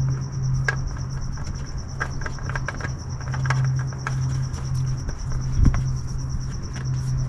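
Crickets chirping steadily over a steady low hum, with scattered light clicks and taps.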